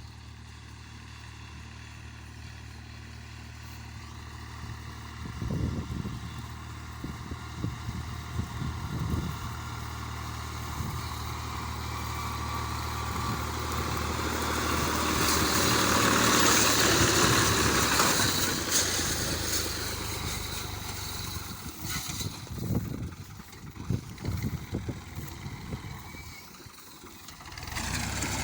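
Tractor's diesel engine running steadily at low revs, growing louder about halfway through and then settling back, with occasional knocks.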